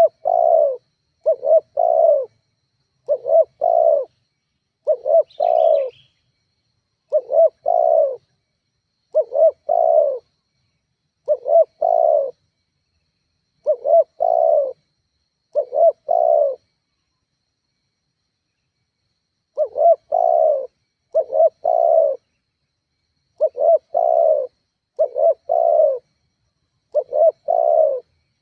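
Spotted dove (tekukur) cooing: the same short phrase, a quick note then a longer two-part coo, repeated about every two seconds, with a pause of about three seconds in the middle. A faint high chirp sounds once, about five seconds in.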